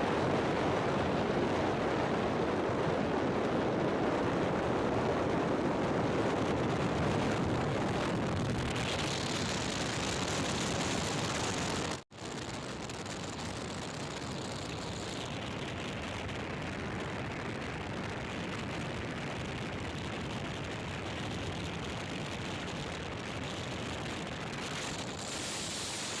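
Steady road and wind noise of a car driving. It breaks off sharply about twelve seconds in and then carries on a little quieter.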